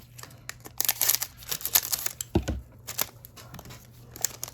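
Plastic wrapper of a trading card pack being torn open and crinkled, in irregular spurts of crackling and rustling, with a soft thump about two and a half seconds in.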